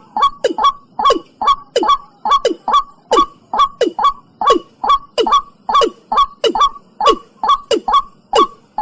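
Watercock (cúm núm) calling: a fast, steady series of loud hollow notes, each dropping sharply in pitch, about two and a half a second.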